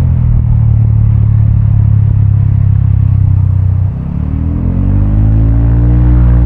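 Vespa automatic scooter's single-cylinder four-stroke engine through an aftermarket Prospeed exhaust, heard while riding. It runs steadily at lower revs, eases off briefly about four seconds in, then climbs in pitch as the throttle opens again.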